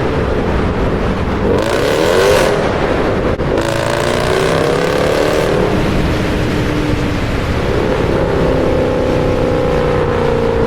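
Jeep Grand Cherokee SRT's V8 pulling hard, its revs climbing about two seconds in and again after a short break around three and a half seconds in. Over the last few seconds it holds a steadier, slowly falling note.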